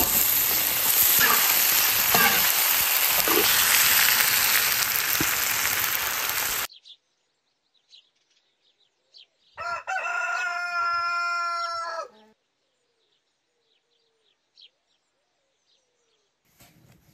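Green chillies stir-frying in a hot oiled wok: a loud, steady sizzle that cuts off suddenly after about six and a half seconds. A few seconds later a rooster crows once, a single call lasting about two and a half seconds.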